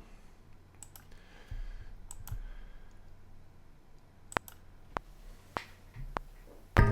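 Scattered single clicks of a computer mouse, about eight in all with irregular gaps, over a faint hum. Right at the end, loud playback of the rhythmic found-sound sample piece starts.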